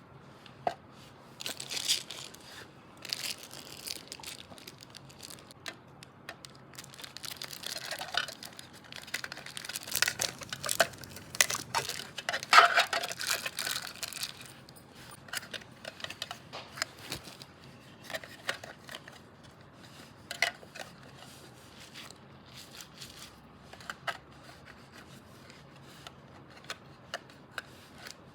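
Squishy toys and their plastic being handled: crinkling, rustling and light clicks and taps, busiest about halfway through and sparser toward the end.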